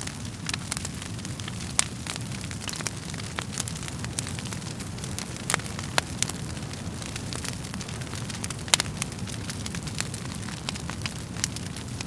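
Wood fire burning in a fireplace: a steady low rumble of flames with irregular sharp crackles and pops from the burning logs, a few of them noticeably louder.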